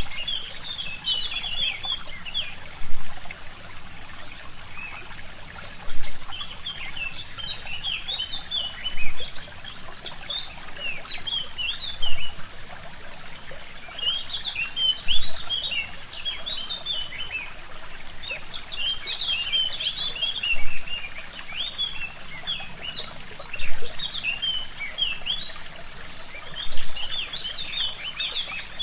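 A brook trickling and gurgling steadily, with songbirds singing quick chirping phrases in bursts every few seconds over it.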